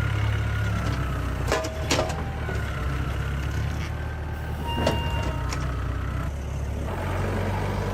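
An engine running steadily, with a few sharp knocks: two near the start and two more midway.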